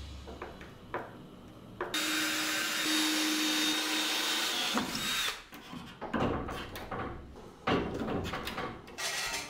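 A handheld power tool runs steadily for about three seconds, then stops. A string of knocks and clatters follows.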